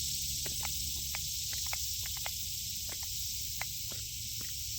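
Steady high hiss with light clicks and taps scattered through it, several a second, as plastic food containers are handled and emptied.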